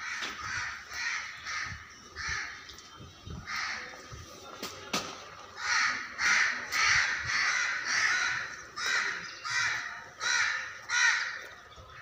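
Birds giving harsh, repeated calls, about two a second, getting louder about halfway through.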